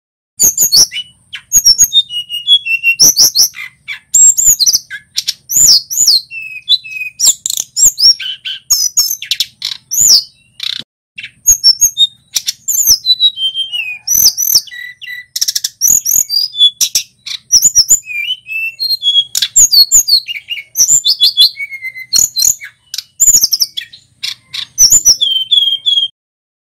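Male hill blue flycatcher (tledekan gunung) singing: a fast, continuous run of loud, high whistles, trills and chirping phrases with quick up-and-down slides. The song stops abruptly about a second before the end.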